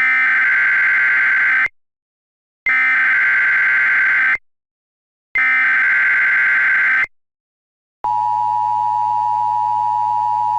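Emergency Alert System SAME header: three identical bursts of digital data tones, each about a second and a half long with a second's silence between them. About eight seconds in, the steady EAS attention tone follows, announcing a civil danger warning.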